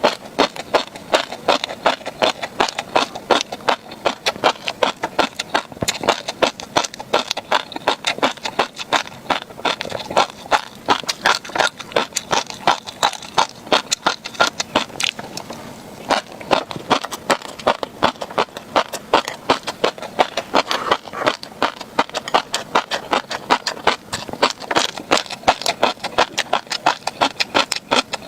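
Close-miked chewing of crunchy tobiko (flying fish roe), the tiny eggs popping and crackling between the teeth in a rapid run of sharp clicks, with a short pause about halfway through.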